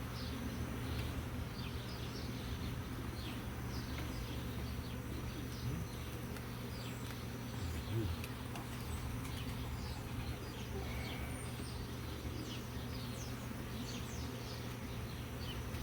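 Steady low hum of honeybees from an opened hive, with short bird chirps repeating throughout.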